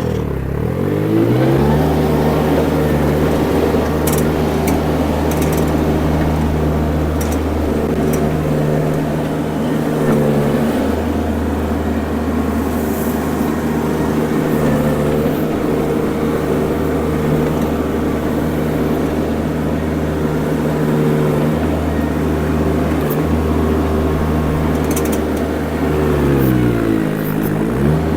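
Mini skid steer engine running steadily at high revs. Its pitch sags and recovers several times, once deeply near the end, as the machine is pulled down under load.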